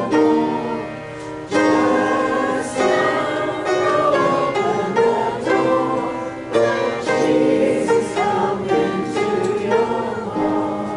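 Church congregation singing a hymn together with instrumental accompaniment, in held notes that change every second or so.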